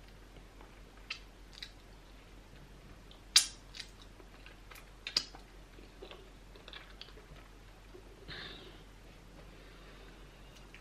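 Mouth sounds of eating by hand: chewing pounded yam and seafood okra soup, with scattered sharp wet smacks and clicks. The loudest comes about three seconds in, and two come close together about five seconds in.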